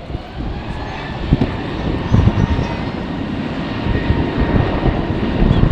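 Airliner jet engines running, a steady rushing noise with a faint whine that slowly grows louder, while strong wind buffets the microphone in irregular low gusts.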